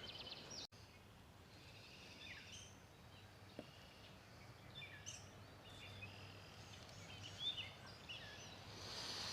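Faint outdoor ambience with small birds calling in the background: short, scattered high chirps over a low steady hum.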